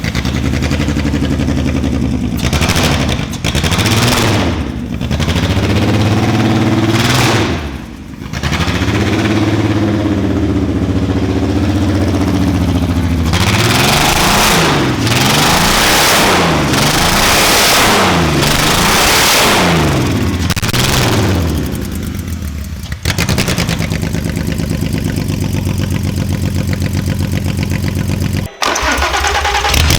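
Audi 3.2 VR6 engine running out of the car with no exhaust pipes, revved hard in repeated blips that climb and fall back. Each rev peak brings a very loud, raw open-exhaust blast, most of them packed into the middle stretch. After that it settles to a steadier run, with a brief dip near the end.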